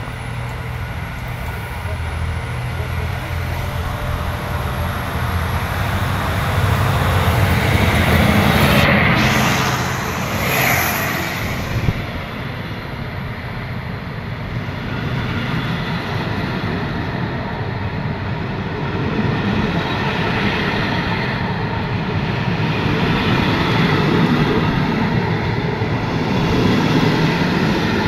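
Diesel locomotive hauling a passenger train slowly past, its engine running as it comes alongside. The coaches' wheels then roll by on the rails, with short sharp sounds about 9 and 11 seconds in.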